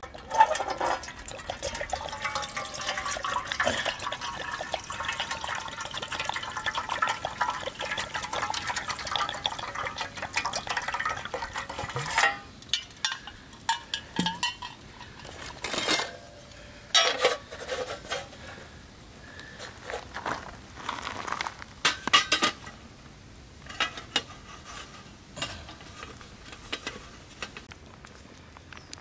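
Water pouring into a large aluminium mess tin for about twelve seconds, then scattered clinks and knocks of utensils against the tin.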